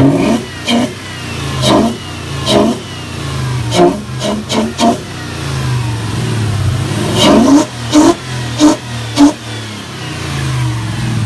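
Lexus 1UZ four-litre quad-cam V8 heard from its intake side, revved in about a dozen quick throttle blips in two bursts, the revs falling back toward idle between them. The intake is sucking in a lot of air.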